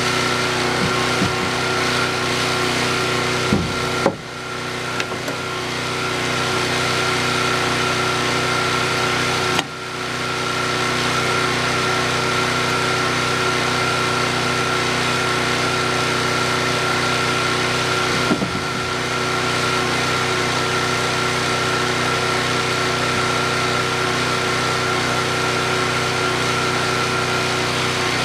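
Milwaukee 10-1/4 inch corded circular saw running and cutting through a 4x6 wooden beam, a steady whine over the noise of the cut, with two brief dips in level about four and ten seconds in.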